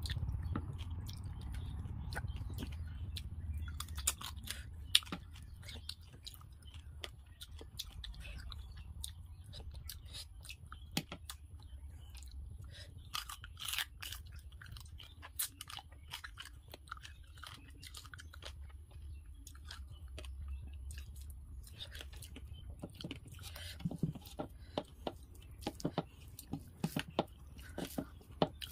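Close-miked chewing of rice and fried fish eaten by hand, with wet mouth clicks, smacks and the odd crunch. A denser run of sharper clicks comes near the end. A low steady hum runs underneath.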